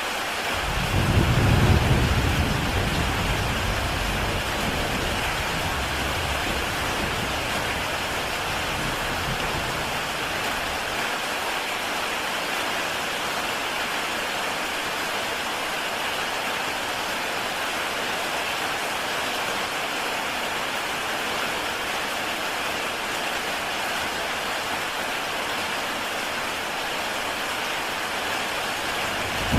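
Heavy rain falling steadily on a tile roof, with a low rumble of thunder that swells about a second in and dies away over the next several seconds.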